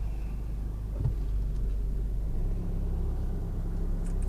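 Car moving slowly with a steady low engine and road rumble, a short knock about a second in, and the engine hum steadying into a clearer note about two seconds in.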